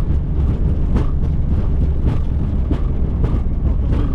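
Steady low rumble inside a Boeing 737 cockpit as the airliner rolls along the runway just after touchdown, with faint irregular knocks every half second or so.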